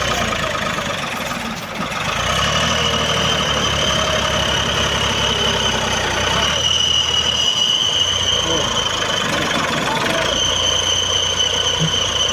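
Tractor diesel engine running hard under load as it strains to pull a stuck, sand-laden trolley, the engine sound picking up about two seconds in, with a steady high whine over it.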